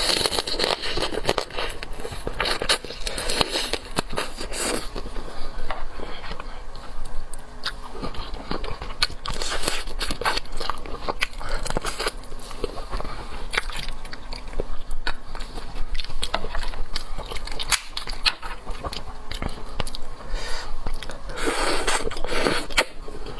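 Close-miked eating sounds: a person biting, cracking and chewing through shellfish, with many sharp clicks and crackles of shell and wet chewing.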